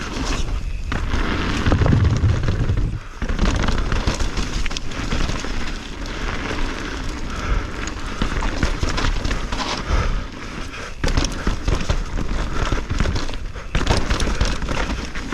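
Mountain bike descending a rough, rooty trail: tyres rumbling over dirt and roots, the bike clattering and knocking over bumps. Wind buffets the helmet-mounted action camera's microphone.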